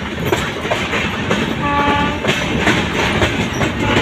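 Indian Railways express train running at speed, heard from its open doorway: a steady rumble of wheels on rail with clickety-clack over the rail joints. A short train horn blast sounds about a second and a half in.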